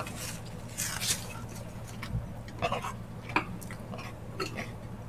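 Close-miked eating sounds: chewing and wet mouth smacks on gelatinous ox-foot balbacua, with scattered short clicks.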